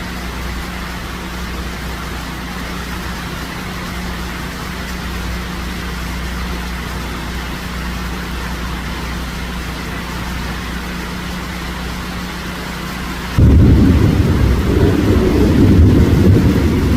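Steady hiss of falling rain. About 13 seconds in, a loud low rumble starts abruptly and continues.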